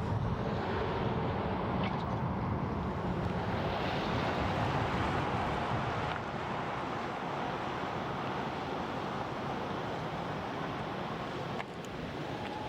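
Steady outdoor wind rushing over the microphone, with a low rumble underneath; the level drops a little about six seconds in and again suddenly near the end.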